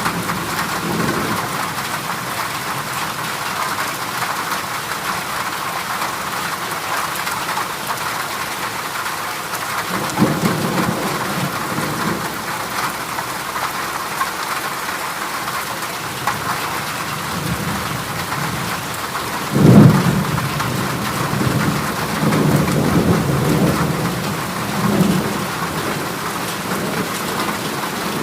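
Heavy rain drumming steadily on a corrugated zinc roof, with rumbles of thunder rolling in about a third of the way through, a sudden loud crack-and-rumble about two-thirds through, and further rolls after it.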